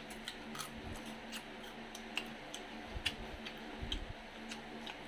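Close-up eating sounds: crisp, irregular crunching clicks from chewing fried food, with a few soft low thumps.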